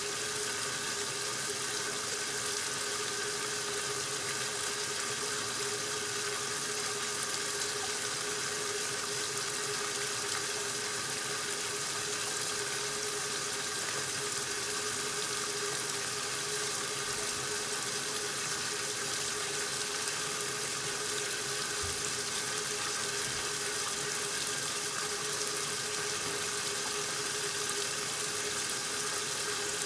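1969 Westinghouse LAJ washing machine running steadily early in its regular wash cycle: water rushing in as it fills, over a steady machine hum.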